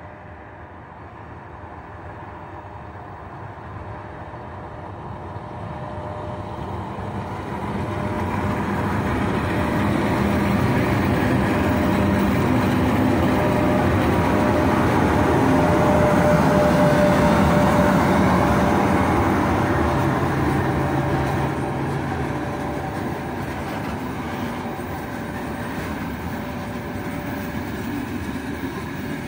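3ES5K 'Ermak' three-section electric locomotive hauling a heavy freight train away from a stop. It approaches and passes with a steady whine over the rumble of its wheels, loudest a little past halfway as it goes by, then the freight wagons roll past.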